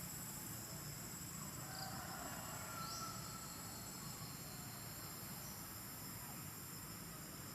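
Steady, high-pitched insect chorus, with a few short rising chirps scattered through it.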